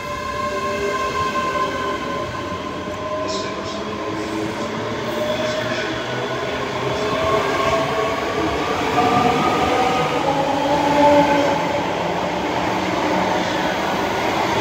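ScotRail multiple-unit passenger train pulling away along the platform, its traction equipment whining in several tones that rise slowly in pitch as it gathers speed, over a steady running noise.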